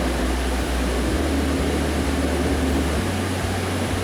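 Interior running noise of a Fukuoka City Subway Nanakuma Line linear-motor train between stations: a steady rumble and hiss with low droning tones that shift up and down in pitch in steps.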